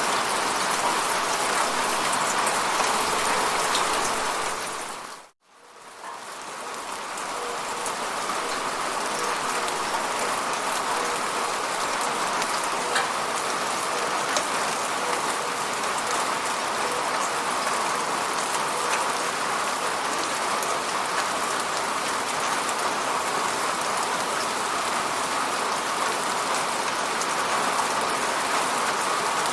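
Steady falling rain. About five seconds in, it drops briefly to silence, then comes back over about a second.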